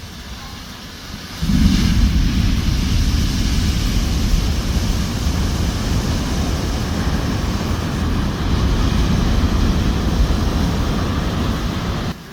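Rough ocean surf breaking, a steady loud rush with heavy wind rumble on the microphone, starting abruptly about a second and a half in.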